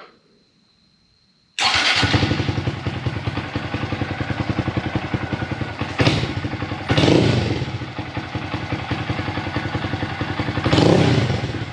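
2022 Honda Grom's single-cylinder engine firing up about one and a half seconds in through a newly fitted Ransoto aftermarket exhaust with its baffle still in, then running with a loud, even pulsing beat and revved briefly three times.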